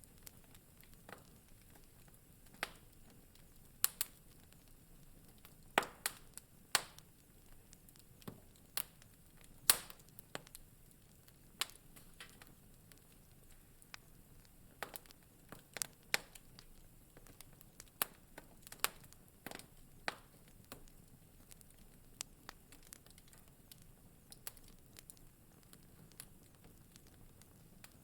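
Wood fire crackling in a fireplace: irregular sharp pops and snaps, several of the loudest in the first ten seconds, over a faint low rumble.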